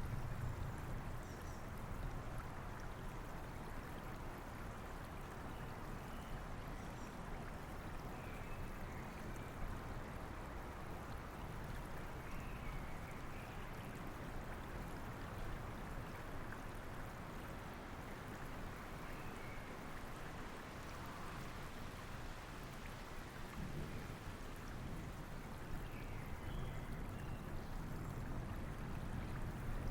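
Steady rain mixed with a flowing river, with low thunder rumbling at the start and again near the end. Faint bird chirps come through now and then.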